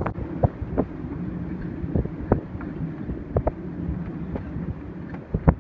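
Gale-force wind gusting over a sailboat at its mooring, buffeting the microphone, with a steady low hum and scattered sharp knocks and clatters, the loudest near the end.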